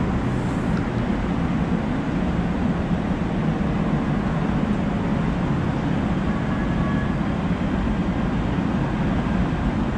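Steady low rumble and hiss of a light-rail train car heard from inside the car, with a faint thin whine briefly around the middle.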